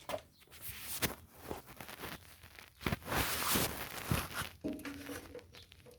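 Hand tools being handled on a lawn mower: scattered sharp clicks and knocks, with a louder rustling stretch about three seconds in.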